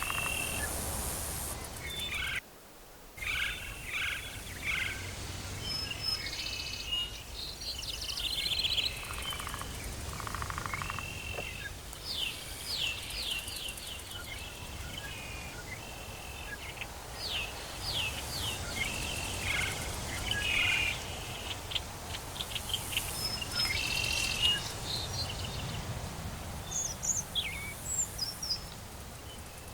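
Tropical forest ambience: many birds calling over a steady background hiss, with short chirps, trills and whistles throughout. The sound drops out briefly about two and a half seconds in.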